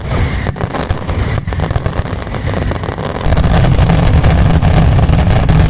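Dense fireworks barrage: explosions run together into a continuous heavy rumble, growing louder about three seconds in.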